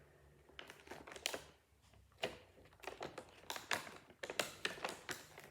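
Small plastic toy pieces and their packaging being handled: irregular clicks, taps and rustling.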